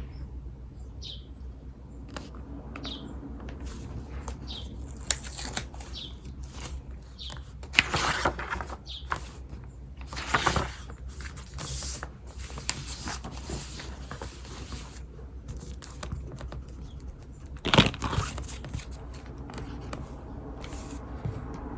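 Writing on paper with a pen or pencil: scratchy strokes come and go, with louder rustling bursts about 8, 10 and 18 seconds in. Birds chirp in the background with short high chirps every second or two.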